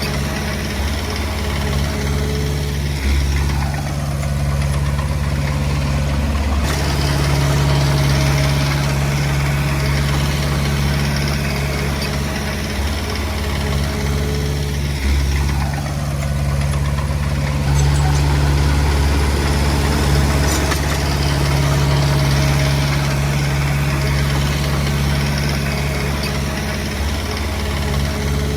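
Diesel engine of a Komatsu D20P bulldozer running steadily under working load, its note dipping and rising again every ten seconds or so.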